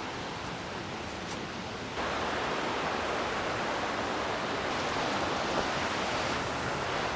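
Waterfall and creek water rushing as a steady wash of noise, stepping up abruptly to a louder, fuller rush about two seconds in.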